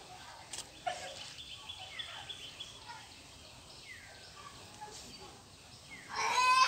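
Birds calling: a short falling whistle repeated about every two seconds, a thin high whistle held for about two seconds from about a second in, and a loud harsh call near the end, the loudest sound.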